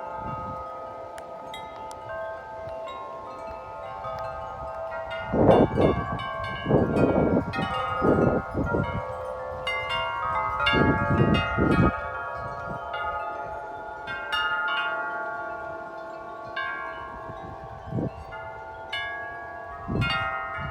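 Several large tuned metal wind chimes ringing together in strong wind, tubes struck again and again so many notes overlap and hang on. Gusts of wind buffet the microphone, loudest between about five and twelve seconds in.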